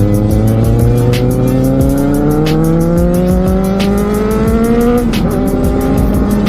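Kawasaki Z750R's inline-four engine accelerating under load, its pitch climbing steadily for about five seconds. The pitch then drops sharply at a gear change, and the engine settles into a steady run in the next gear.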